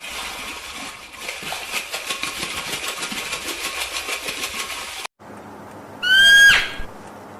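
An animal call, noisy and rapidly pulsing, runs about five seconds and then cuts off. After a brief gap, a goose gives one loud honk whose pitch drops at the end.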